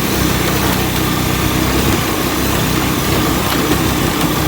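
Motorcycle engine running steadily while riding along, with a constant rushing noise over it.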